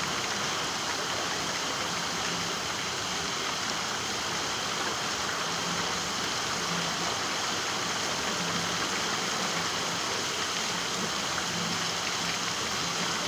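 Steady rain falling, an even unbroken hiss of rain on surfaces.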